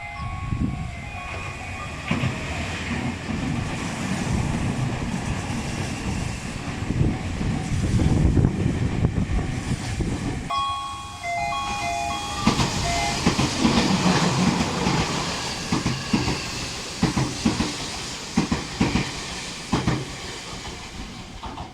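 Strong wind buffeting the microphone throughout. A short electronic station chime plays briefly at the start and again about half-way. In the second half a Tobu 500 series Revaty electric limited express runs through the station with rail clatter.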